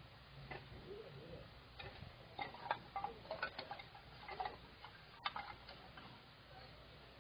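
Campfire wood crackling: scattered, irregular sharp clicks, bunched together in the middle.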